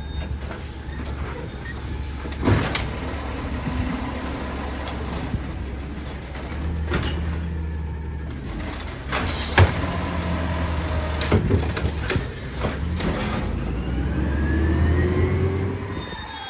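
Peterbilt 320 garbage truck's diesel engine running steadily, with sharp metallic knocks about two and a half seconds in and again around nine and a half seconds. Near the end the engine revs up in a rising tone.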